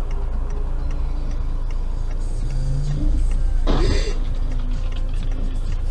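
Steady road and engine noise of a moving car, recorded by a dashcam, with one brief loud noise about three and a half seconds in.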